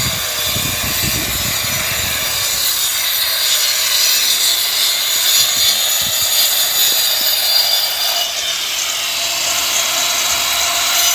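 Steady cutting and scraping noise from tools at work on a plumbing or wiring job, with no clear stroke rhythm.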